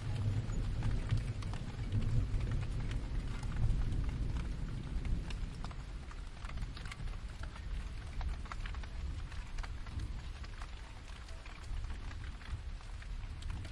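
Steady rain with many scattered drops pattering. Under it a low rumble of distant thunder fades away over the first few seconds.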